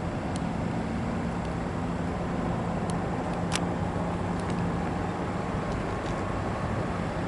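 Steady vehicle rumble with a low, even hum and a few faint ticks.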